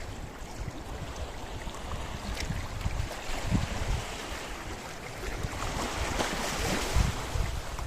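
Sea waves washing onto a rocky shore, with a wave swelling and breaking in the second half, and gusts of wind rumbling on the microphone.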